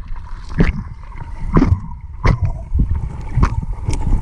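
River water splashing and gurgling close to the microphone, with a sharp splash or knock about every half second to a second over a low rumble.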